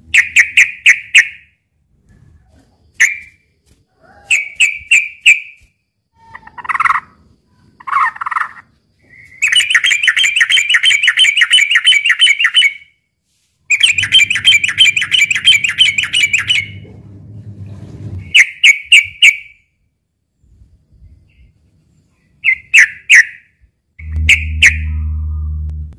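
Yellow-vented bulbul (trucukan) giving its agitated fighting chatter: short bursts of sharp, rapid notes, with two long, fast chattering runs of about three seconds each, a third of the way in and near the middle. A low hum sits under the second run and returns near the end.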